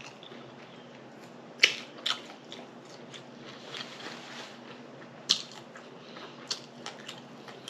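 A person eating close to the microphone: bites and chewing with wet mouth sounds and a handful of sharp, crisp crunches, the loudest a little over a second and a half in and again about five seconds in.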